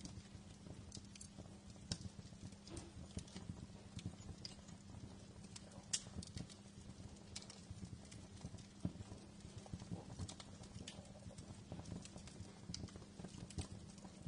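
Wood fire crackling in a fireplace: irregular small pops and snaps over a low steady hum, with one sharper pop about six seconds in.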